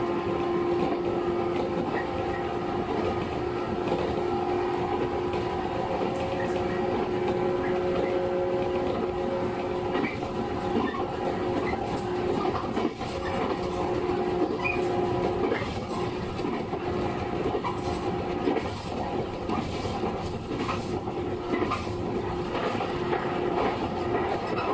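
JR 115 series electric train heard from inside the car while running at a steady speed: a constant-pitch hum from the motors and gears over the rumble of the wheels, with scattered clicks from the wheels on the rail.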